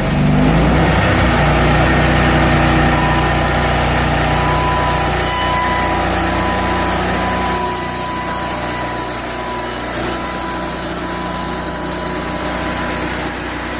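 Hudson HFE30 portable band sawmill's gas engine running steadily; it is quiet-running. A thin steady whine joins a few seconds in, and the engine gets somewhat quieter about halfway through.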